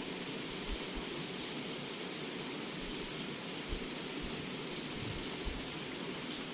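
Heavy rain falling steadily against a window: an even hiss with scattered sharper drop hits.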